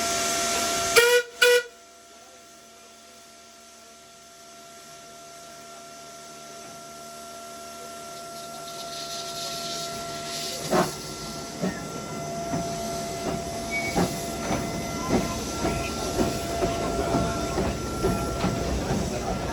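Two short toots on the steam whistle of a Darjeeling Himalayan Railway B Class saddle-tank locomotive. Then the engine gets under way, its steam and running noise growing steadily louder, with sharp chuffs and clicks coming more and more often in the second half.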